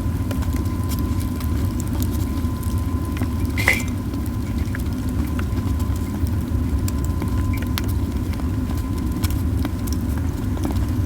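Pine cones burning in a campfire: a steady low rush of flame with scattered crackles and pops, one louder pop about four seconds in.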